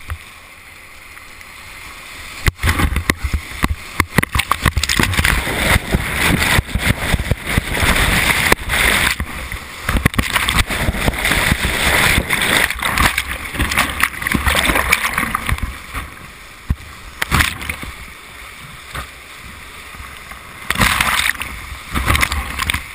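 Whitewater rushing and splashing around a kayak, picked up by a helmet-mounted camera. The splashing comes in loud, choppy bursts from about two and a half seconds in, eases after about sixteen seconds, and comes back in one more brief splash near the end.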